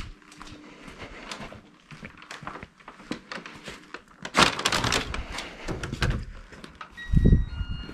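Scattered light clicks and knocks. About halfway through, a louder rush of noise begins, and near the end strong low rumbling gusts of wind buffet the microphone.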